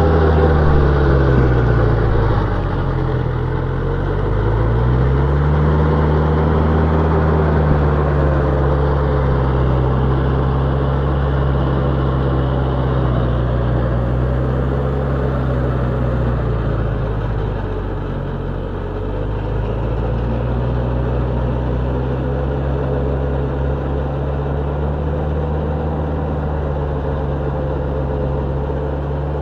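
Kubota tractor's diesel engine running steadily while driving a rotavator through hard soil. Its pitch sags and recovers a couple of seconds in, and sags briefly again about two-thirds of the way through, as the engine is loaded by the tilling.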